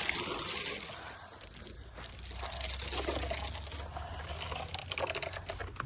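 Shovel digging into loose dirt, with soil sliding and spilling off the blade and small scrapes and crunches of grit, plus a low rumble in the middle.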